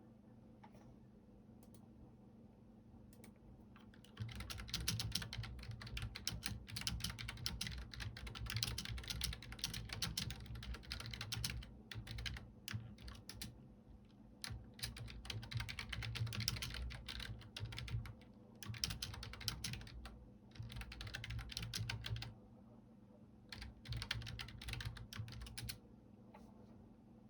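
Typing on a computer keyboard. A few scattered key presses come first, then from about four seconds in there are bursts of fast typing broken by short pauses. It stops shortly before the end, over a faint steady low hum.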